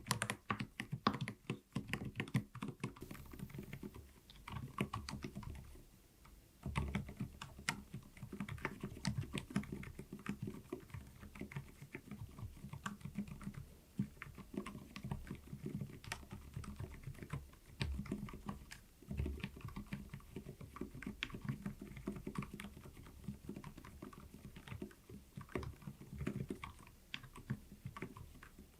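Typing on an mStone mechanical keyboard fitted with silent (dampened) switches: a quick, uneven run of soft keystrokes with a short pause about six seconds in.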